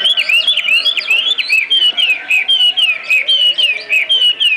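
Small birds chirping and singing, a quick run of short whistled notes, about four a second, sliding up and down, with sharp ticks among them.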